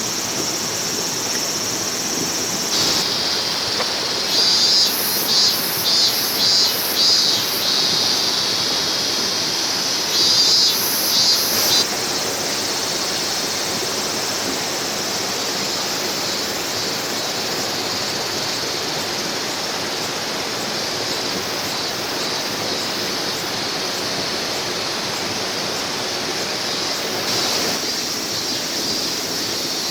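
A clear mountain stream running steadily. Between about three and twelve seconds in, a high insect call sounds over it in a series of short pulsing bursts.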